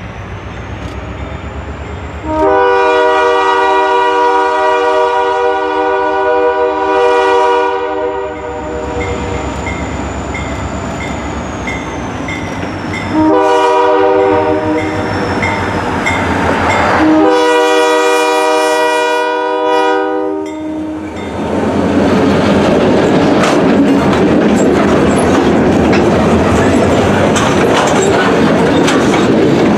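Diesel freight locomotive approaching and sounding its chime horn: a long blast, a short one, then another long one, the close of the standard grade-crossing signal. After the horn, the freight cars roll past with steady wheel noise and clicking over the rail joints.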